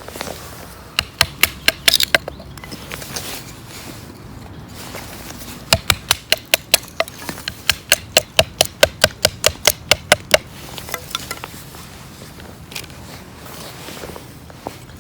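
A run of sharp knocks or taps at about three to four a second, lasting about four seconds in the middle, with a few scattered knocks before and after.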